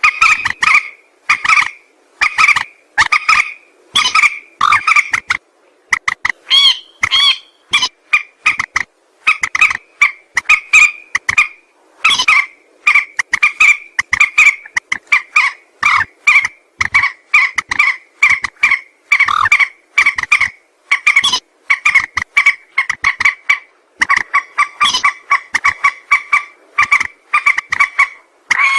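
Mandar sawah, a paddy-field rail, calling in a long unbroken series of short harsh notes, about one to two a second.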